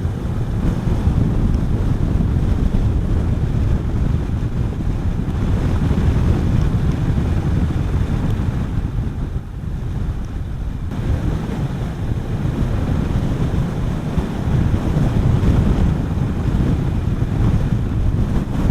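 Wind buffeting the microphone of a motorcycle rider at road speed: a loud, steady, low rumble that eases briefly about halfway through.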